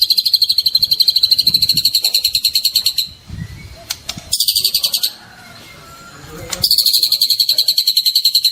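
Juvenile white-rumped shama (murai batu trotol) giving a fast, buzzy rattling call of about nine pulses a second, in three bouts: a long one, a short one around the middle, and another starting near the end.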